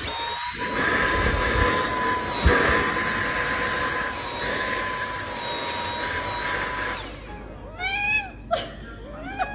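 A household appliance motor runs with a rushing air sound and a steady high whine, with a thump about two and a half seconds in, then shuts off after about seven seconds. Right after, a cat meows.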